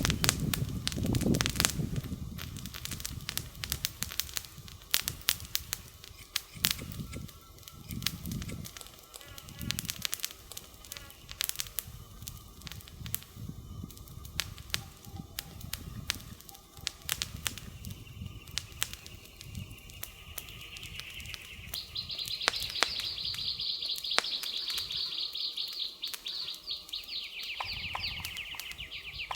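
Wood fire crackling with frequent sharp pops and snaps, with a low rumble in the first seconds. About two-thirds of the way through, a high, rapid trill from the surrounding woods joins in and continues to the end.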